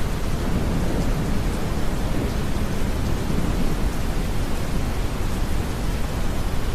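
A low roll of distant thunder swells in the first few seconds and fades, over a steady bed of deep brown noise and gentle rain.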